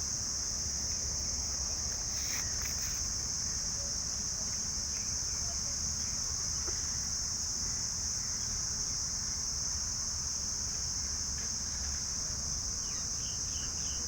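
Steady, high-pitched, unbroken chorus of insects. A quick run of short bird calls comes near the end.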